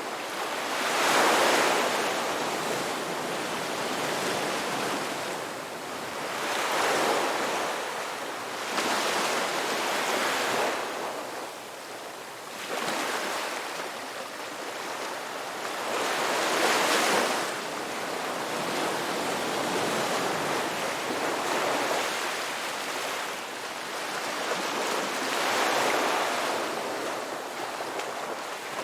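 Ocean waves breaking and washing onto a beach: an unbroken hiss of surf that swells with each breaker, about five or six of them.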